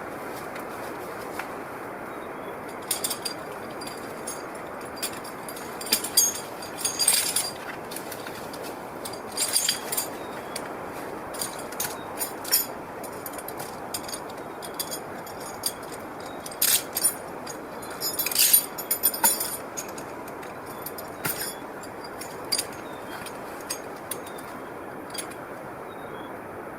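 Irregular clusters of sharp metal clinks and jangles, over a steady background noise.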